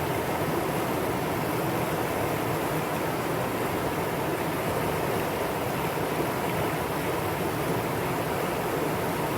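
Mountain stream water rushing over rocks in a steady, unbroken flow.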